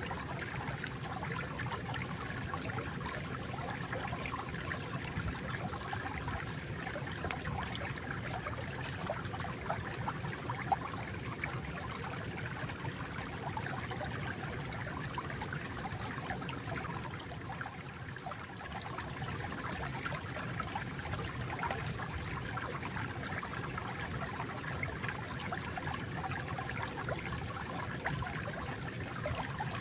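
Flowing water: a stream running and trickling steadily, with a brief dip in level about two-thirds of the way through.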